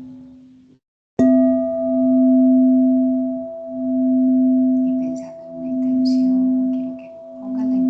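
Singing bowl struck about a second in, then ringing with a steady low tone that swells and fades in slow pulses roughly every two seconds. Faint high chirps come in over it in the second half.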